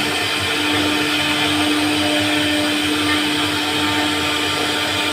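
CNC router spindle running steadily while carving wood, a constant high whine over a wide hiss.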